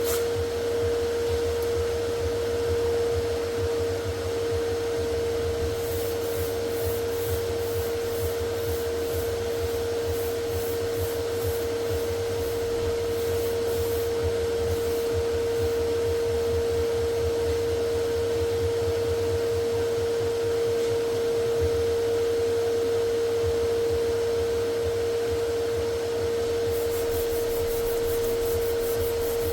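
An electric workshop motor running steadily with a constant whine and a low hum under it.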